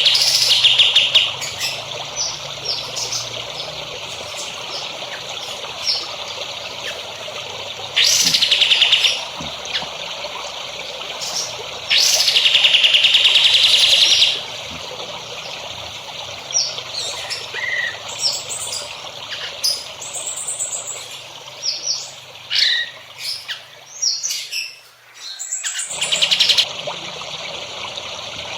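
Caged-songbird tutor recording: songbirds calling, with loud buzzy trills lasting one to two seconds, the longest about twelve seconds in, among many short chirps over a steady background hiss. About twenty-five seconds in, the sound briefly dips before the calling resumes.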